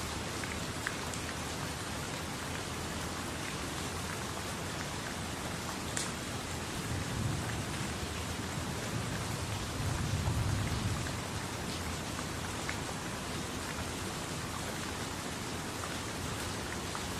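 Steady rain falling, with a few sharper individual drops and two brief low rumbles, about seven and ten seconds in.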